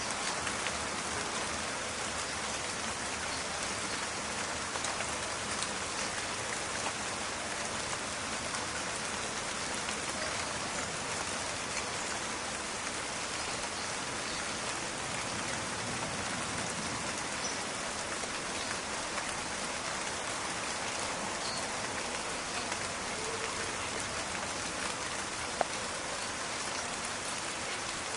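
Steady rain falling, a dense, even crackling patter of drops, with one sharper single tick near the end.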